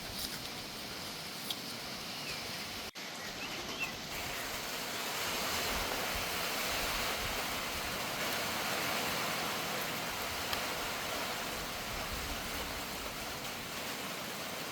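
Heavy rain pouring down as a steady wash of noise, swelling louder a few seconds in, with a momentary break about three seconds in.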